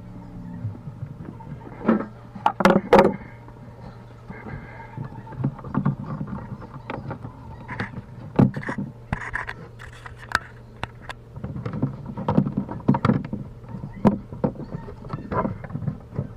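Irregular knocks, clicks and clatter of hand tools and fittings being handled during a garbage disposal installation, over a steady low hum.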